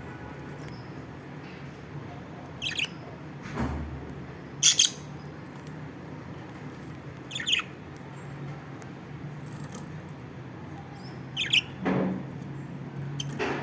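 Lovebirds giving short, high chirps every few seconds, the loudest a quick double chirp about five seconds in. A low steady hum runs underneath.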